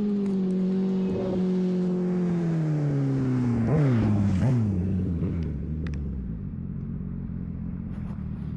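Sportbike engine running steadily, then slowing down with two quick throttle blips about four seconds in, as on downshifts. It then settles into a low steady idle.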